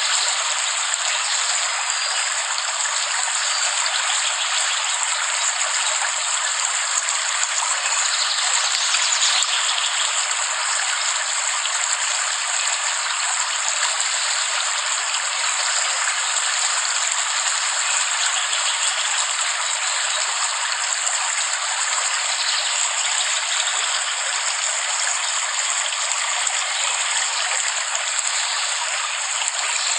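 Steady heavy rain, an even hiss of falling water with a gushing, stream-like wash and no thunder.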